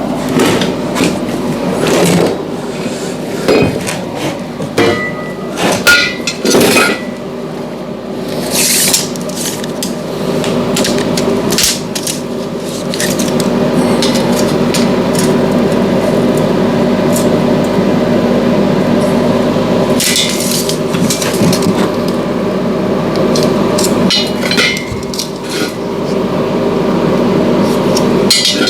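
Metal hammer strikes and clanks during metalwork on a bus door frame, irregular and sharp, over a steady mechanical hum.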